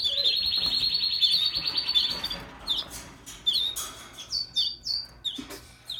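A baby bird's high-pitched begging chirps: a fast run of chirps for about two seconds, then single down-slurred chirps repeated a few times a second.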